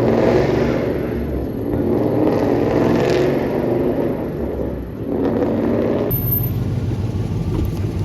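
Car engine running and being revved, with the engine note swelling and easing.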